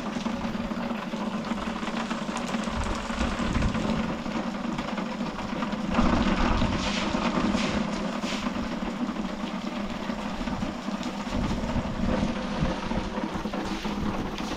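Blizzard wind gusting against the microphone: a steady rushing noise with irregular low rumbles, strongest about six seconds in.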